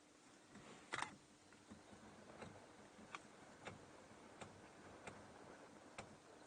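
Faint, irregular light clicks, about one a second over near silence; the first, about a second in, is the loudest.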